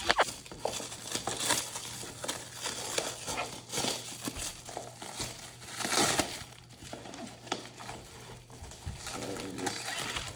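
Plastic wrapping crinkling and rustling as it is handled, in irregular crackles, with a louder rustle about six seconds in.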